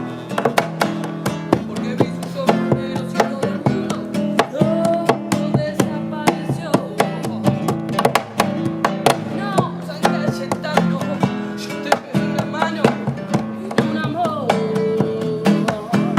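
Live music: acoustic guitar strummed in a steady, driving rhythm, with a voice singing over it.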